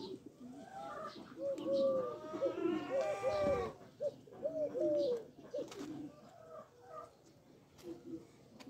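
Birds calling: a run of short, arched cooing notes, thickest in the first two-thirds, with one longer held call about three seconds in.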